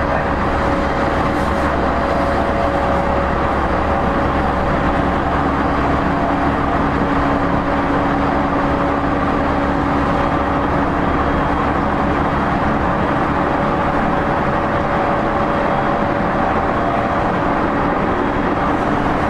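Running noise inside the motor car of a JR East E231-0 series commuter train at steady speed: a loud, even rumble of wheels on rail, with a steady hum from the traction equipment. A second, lower steady tone joins the hum about five seconds in.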